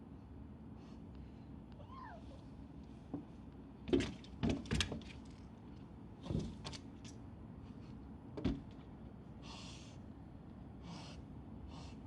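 A cat gives one short, falling meow about two seconds in, followed by a handful of sharp knocks or clacks, the loudest of them around the middle, and a brief rustle near the end.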